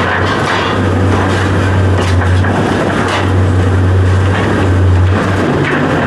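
Heavy machine engine running steadily with a low drone, with a few knocks over it.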